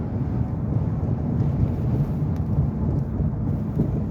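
Steady low rumble of a vehicle engine running close by, with an even hum and no distinct events.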